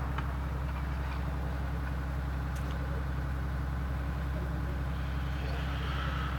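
Steady electrical hum with a faint hiss, holding evenly with no other events.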